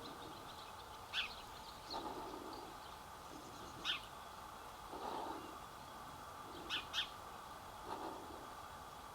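Wild birds calling: low calls repeated about every three seconds, some in pairs, with a few short high calls in between.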